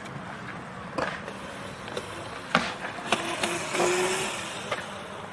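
Wheels rolling over concrete skate-park ramps, with a few sharp knocks and clacks and a louder rush of rolling noise about four seconds in.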